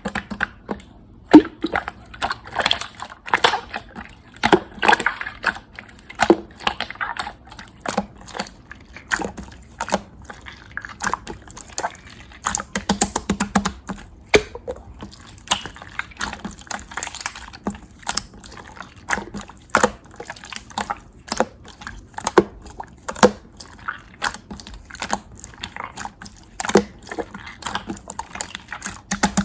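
Clear slime being squeezed and poked by hand, making irregular wet clicks, pops and squelches, several a second.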